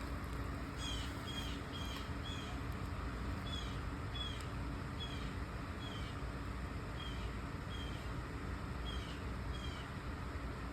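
A bird calling over and over, short high chirps mostly in pairs, over a steady fan-like hum and hiss.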